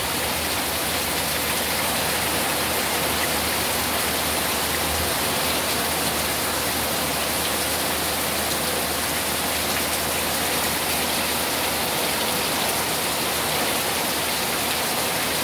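Steady, heavy thunderstorm rain pouring down and pattering on surfaces.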